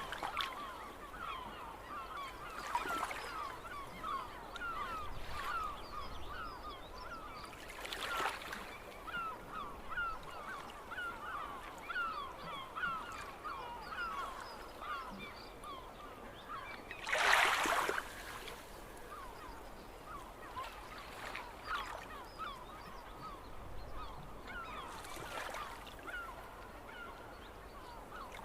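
A flock of gulls calling over and over, many short overlapping cries. A brief, louder rushing noise comes about two-thirds of the way through.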